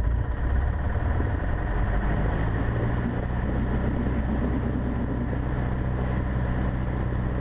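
Cessna 150's Continental O-200 four-cylinder engine running steadily at about 1700 rpm for the pre-takeoff run-up, heard from inside the cockpit. Its note settles about two seconds in.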